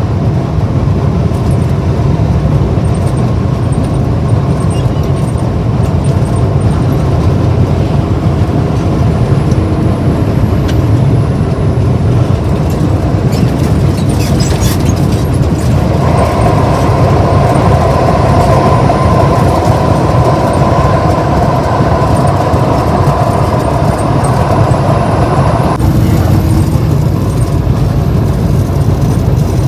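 Steady road and engine rumble of a moving car. About halfway through a steadier, higher hum joins in and cuts off suddenly about ten seconds later.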